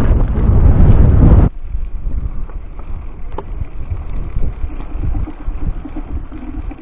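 Wind buffeting the microphone during a downhill bicycle ride, a loud low rumble that cuts off abruptly about a second and a half in. After that only a much quieter low rumble with a few faint clicks.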